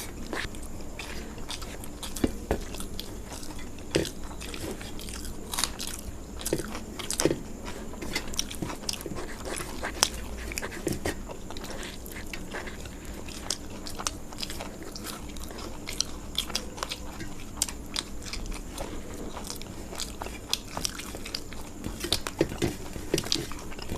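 Close-miked eating: chewing and crunching crisp fried food, with sharp bites and small mouth clicks at irregular intervals.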